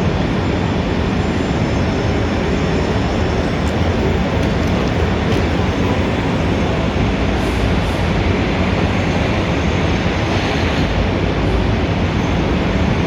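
Busy city street ambience: a steady, loud wash of traffic noise with no single vehicle or event standing out.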